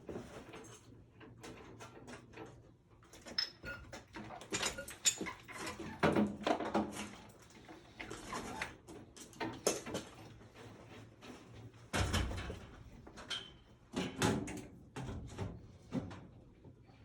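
Irregular knocks, clicks and scrapes of parts and tools being handled during a furnace replacement, with no steady machine running.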